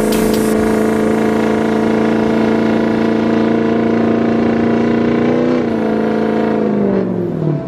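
Truck engine held at steady high revs, as in a burnout. About five and a half seconds in, the revs lift briefly and then fall away as the throttle is released.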